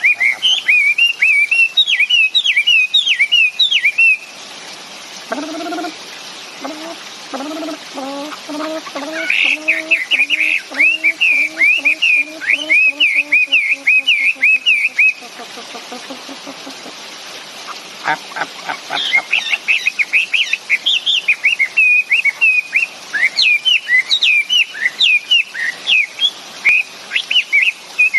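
Caged songbird singing in long runs of fast, rapidly rising and falling whistled notes, with two breaks of a few seconds between the runs.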